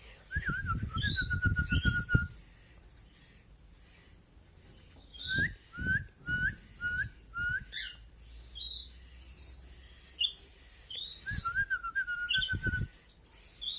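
A person whistling to a pet canary: two warbling phrases that settle into a held note, and between them a run of five short rising notes, with breath noise on the microphone under the whistling. Short high chirps from the canary come in between the phrases.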